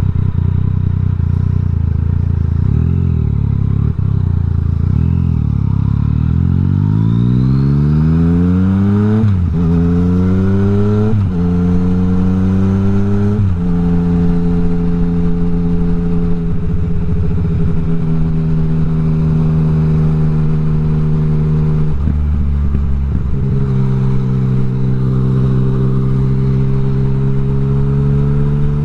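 Yamaha MT-09's inline three-cylinder engine under way: the revs climb hard and the bike shifts up three times in quick succession, each shift a sudden drop in pitch, then it settles into a steady cruise, with a brief roll-off and pick-up of the throttle past the middle.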